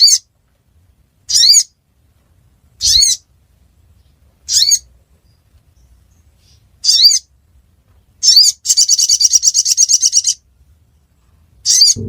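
Sogon (sogok ontong) bird calling: short, high chirps repeated about every one and a half seconds, then a rapid high trill of about two seconds, and one more chirp near the end.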